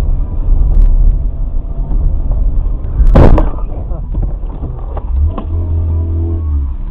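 Car road noise picked up by a dashcam, a steady low rumble. About three seconds in there is a loud, sudden bang, typical of a collision. A steady low tone follows near the end.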